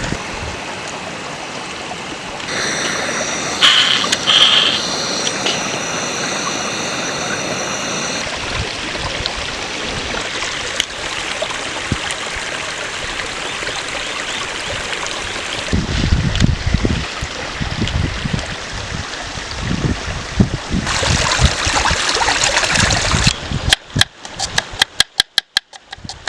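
Rushing water of a stream running steadily, chopped into a few quick breaks near the end.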